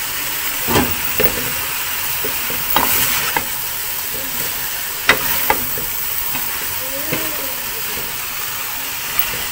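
Shredded cabbage and vegetables sizzling in hot oil in a metal pan, stirred with a spatula that knocks sharply against the pan several times.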